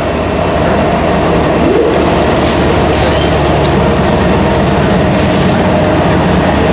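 Diesel locomotives and freight cars moving through a rail yard, the engines running steadily with a steady high-pitched tone over them.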